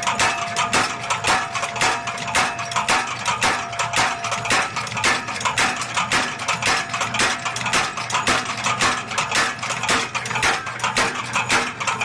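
Motor-driven mechanical power hammer striking hot steel in an even, rapid rhythm of several blows a second.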